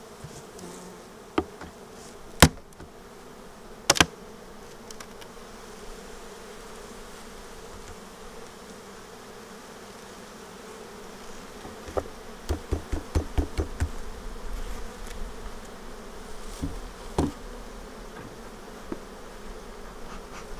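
Honeybees buzzing steadily around an opened hive, with sharp knocks now and then and a quick run of taps about twelve seconds in.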